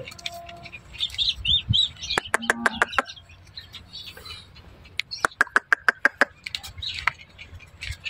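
Small birds chirping, with two runs of quick, sharp clicking notes about two and five seconds in.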